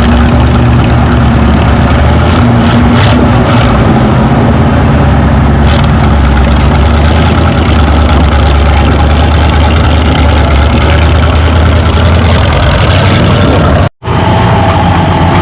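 Tractor-pull engines running loud and steady. About 14 seconds in the sound cuts out for an instant and comes back as a different steady engine sound with a higher held whine.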